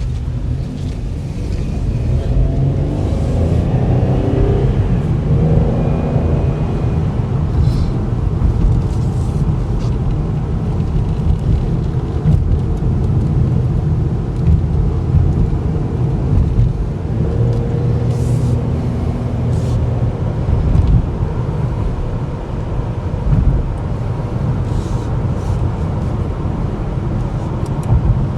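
Inside a 2012 Chevy Impala on the move: steady low engine and road rumble. The 3.6-litre V6's note rises as the car accelerates a few seconds in, and again briefly past the middle.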